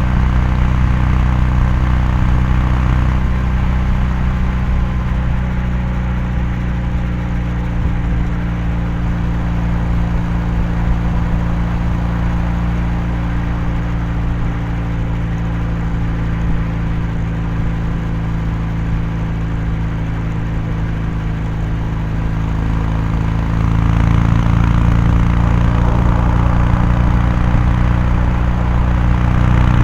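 Kawasaki Meguro K3's air-cooled parallel-twin engine and exhaust at a steady highway cruise, a continuous low drone. It eases off a little a few seconds in and grows louder again near the end.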